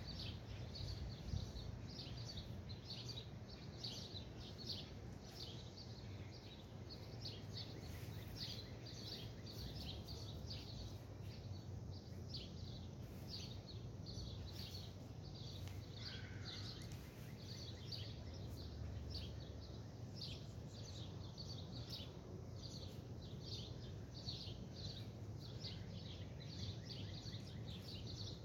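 Small birds chirping in quick, repeated short notes over a steady low background hum.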